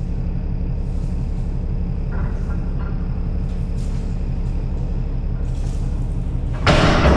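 Caterpillar 3406E inline-six diesel engine running at a steady idle after its injector cup repair: a low, even rumble with a fast regular pulse. A louder burst of sound comes in near the end.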